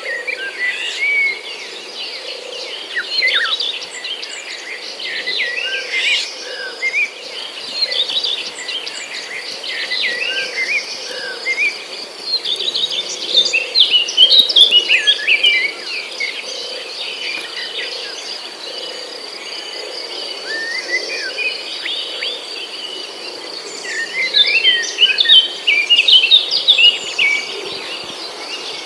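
Several birds chirping and singing in quick, overlapping phrases, over a steady high trill that runs underneath. The chirping thickens into busy bursts about halfway through and again near the end.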